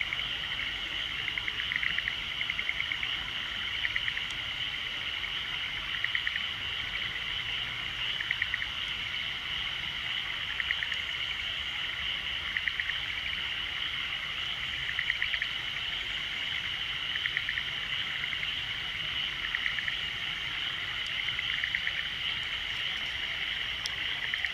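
Frogs calling in a chorus: short pulsed calls repeat every one to two seconds over a steady high-pitched trill.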